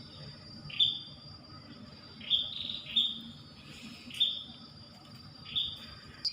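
A bird calling in the mangroves: five short, sharp chirps at irregular intervals a second or so apart, over a steady high-pitched whine.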